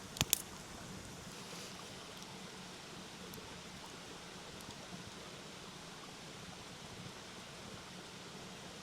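Steady rush of a mountain stream, with two sharp pops from a wood campfire just after the start and a few faint ticks later.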